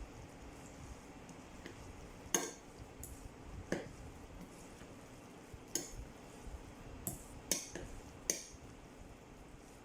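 A spoon stirring a rice and minced-meat stuffing in a bowl, knocking and clinking against the bowl's side about seven times at irregular intervals, with soft scraping between the knocks.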